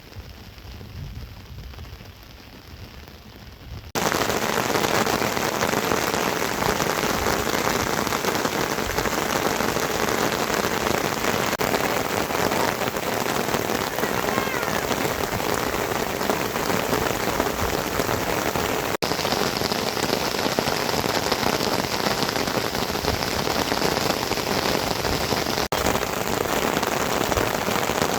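Steady heavy rain, an even hiss that comes in suddenly about four seconds in after a quieter stretch, with two very brief breaks later on.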